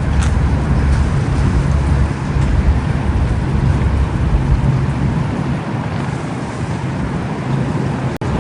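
Thunderstorm noise: a steady rush of heavy rain and wind with a deep, uneven rumble underneath. The sound drops out for an instant near the end.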